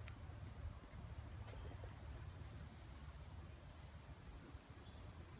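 Faint outdoor ambience: short, very high bird chirps repeat irregularly about ten times over a steady low rumble.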